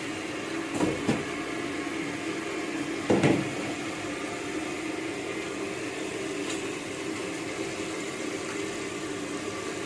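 Flour-coated chicken deep-frying in a wok of hot oil, a steady frying noise, with a brief clatter about a second in and a louder one about three seconds in.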